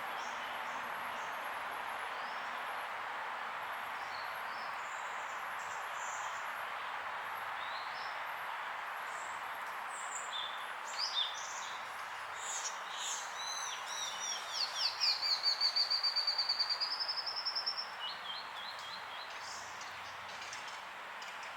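Wild birds calling and singing over a steady background hiss: faint high chirps at first, then more calls from about halfway through. The loudest part is a fast run of repeated notes that rises slightly in pitch and stops abruptly near the end.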